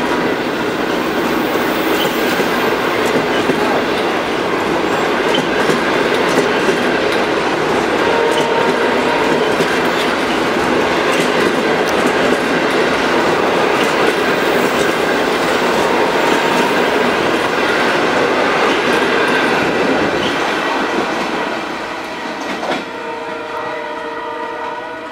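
Passenger coaches rolling past close by: a steady rumble of steel wheels on rails with clicks over the rail joints. About three seconds before the end the sound drops away as the train recedes, and a steady tone of several notes is left.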